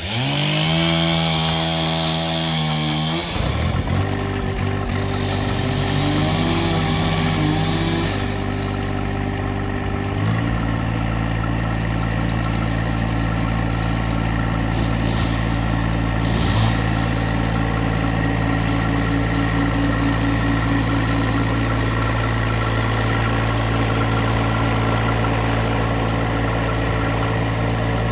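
A vehicle engine starts and runs, its speed stepping up and down a few times in the first ten seconds before it settles into a steady run.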